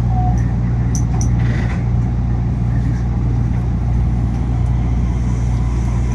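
Steady loud hum and running noise inside an Okinawa Urban Monorail (Yui Rail) car, with its air conditioning blowing loudly.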